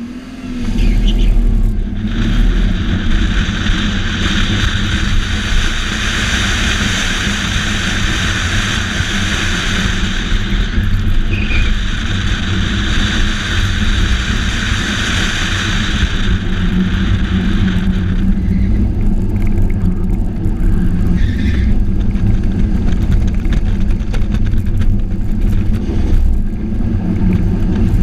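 Car engine running hard, with a steady hiss laid over it from about two seconds in until about eighteen seconds in.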